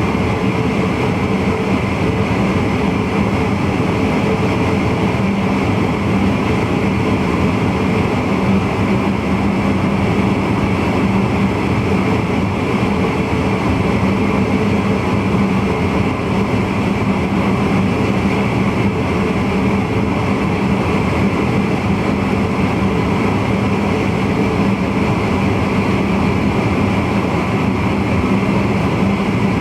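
Steady running noise inside the cab of a VIRM double-deck electric intercity train, with an even hum that does not change.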